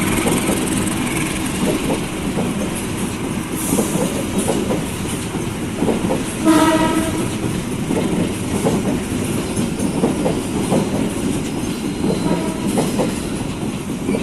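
Train passing, its wheels clacking over the rail joints in an uneven run of knocks, with one short horn blast about halfway through.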